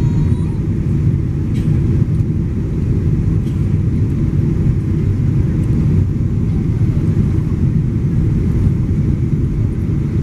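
Steady, loud low rumble of an airplane, even and unbroken throughout.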